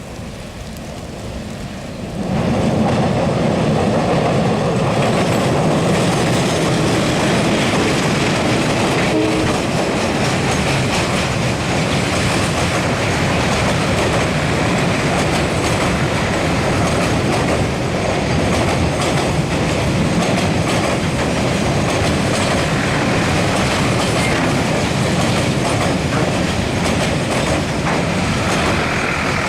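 Train crossing a railway bridge: wheels clattering and rumbling over the rail joints and bridge deck. The sound is loud and steady, coming in abruptly about two seconds in.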